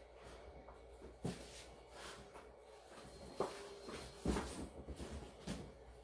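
Faint, scattered knocks and clicks of objects being handled on a table, four or five separate soft impacts.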